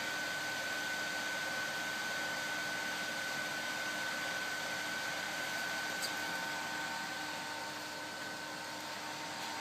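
Rework station cooling fan running steadily: an even rush of air with a thin steady whine, cooling the board after the reflow profile. A faint click about six seconds in.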